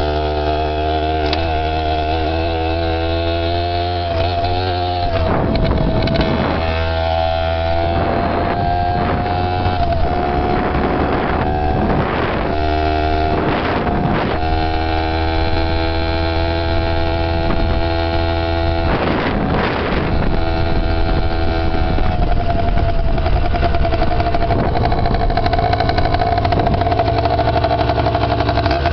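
Dirt bike engine running steadily under way, its pitch drifting slightly up and down. Repeated noisy rushes come and go over it between about five and twenty seconds in.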